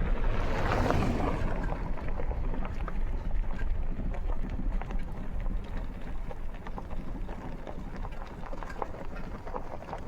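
Motor vehicle running, a steady low rumble with a louder surge of noise about half a second to a second and a half in and scattered small clicks.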